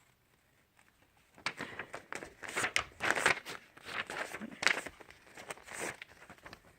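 A sheet of paper being folded and creased by hand: a run of short rustles and crinkles starting about a second and a half in.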